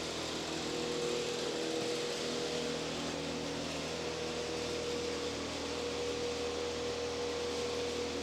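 Steady background hum and hiss of room tone with a faint steady tone in it; no distinct event.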